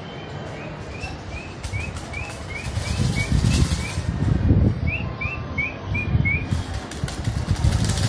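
Short rising chirps repeated about three a second in two runs, from a small bird near a feeding spot. Between and under them, rustling and low rumbling noise as seeds are poured from a packet into a hand and scattered onto a stone slab.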